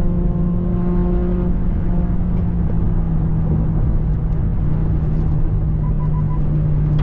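A motor vehicle running: steady engine and road rumble with a constant low hum. A set of higher tones fades out about a second and a half in, and three faint short beeps come about six seconds in.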